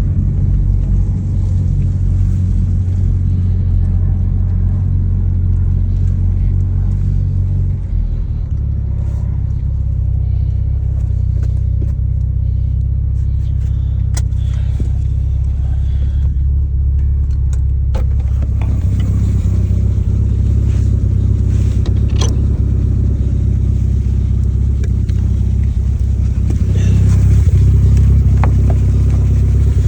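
BMW E30 M3's S14 four-cylinder engine running steadily, with a few sharp clicks over its note, getting a little louder near the end. The engine is knocking.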